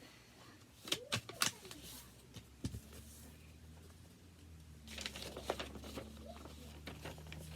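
A sheet of paper being folded and creased by hand: scattered crinkles and rustles, clustered about a second in and again from about five seconds. A low steady hum comes in a little under three seconds in.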